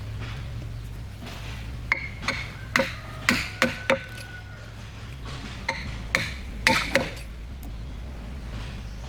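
Hammer blows with a sharp, ringing strike, in two short runs of several strikes each, over a steady low hum.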